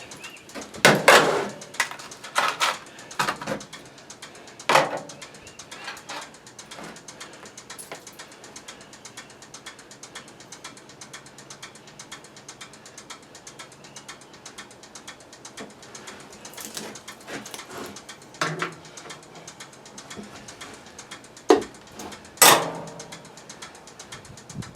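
A few irregular knocks and clatters of tools and parts being handled, bunched near the start and again near the end, with quieter stretches between.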